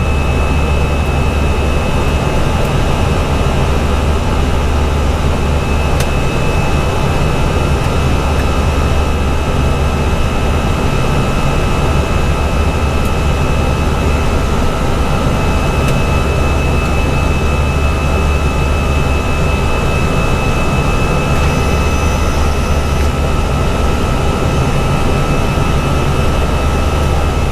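Steady cockpit noise of an Airbus A320 climbing at climb thrust: rushing air and jet engine hum. A low rumble swells and eases, under a faint steady high tone.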